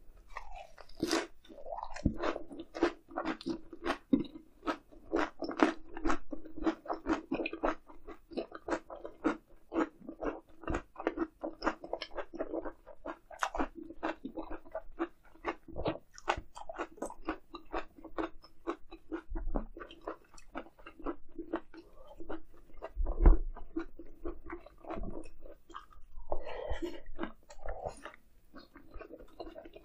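Close-miked chewing and crunching of grilled eel: a dense run of quick, crisp mouth clicks and crackles, with one heavier bump about three quarters through.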